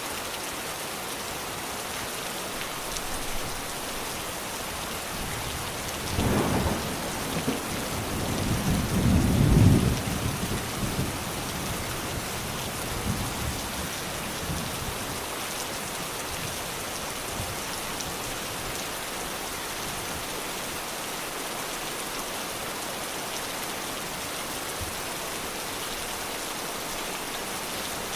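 Steady rain falling, with a low rumble of thunder a few seconds in that swells and fades over about four seconds; then steady rain alone.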